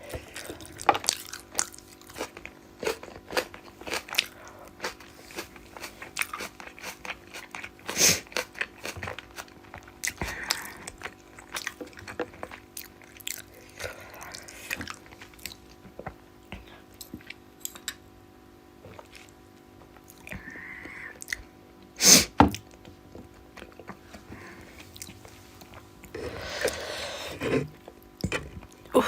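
Close-up eating sounds of rohu fish curry: chewing with many small wet clicks. There is a louder double knock about two-thirds of the way through and a longer rustling, breathy stretch near the end.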